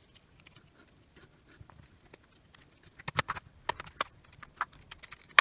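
Hard plastic clicks and taps of a cordless rotary tool's housing parts being handled and pressed together during reassembly, sparse at first, with a cluster of sharper knocks from about three seconds in and one sharp knock at the end.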